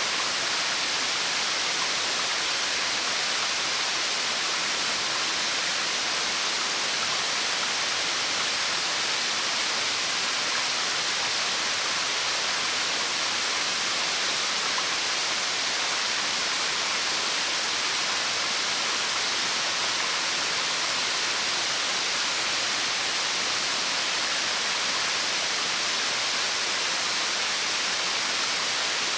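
Waterfall: water dropping about 30 m and splashing in a steady, unbroken hiss, strongest in the high and middle range with little low rumble.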